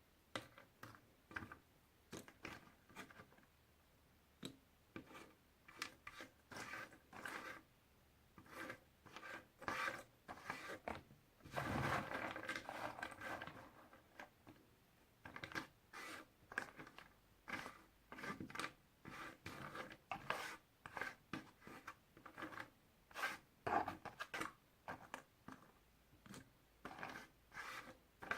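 Puzzle pieces being handled: a string of short clicks and taps, with a longer stretch of rubbing and rustling a little before the middle.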